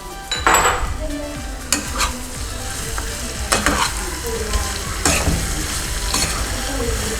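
Chicken pieces sizzling in a pan in their soy-sauce and ginger sauce while being stirred with a spatula. The steady sizzle is broken by sharp scraping strokes against the pan at irregular intervals, about once a second.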